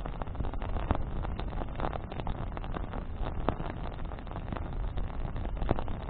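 Wood bonfire burning, with irregular crackles and sharp pops over a steady low rumble.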